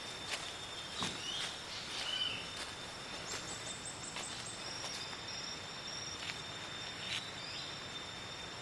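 Tropical rainforest ambience: a steady high-pitched insect drone of several layered tones, with scattered sharp clicks and a couple of short bird chirps between one and two and a half seconds in.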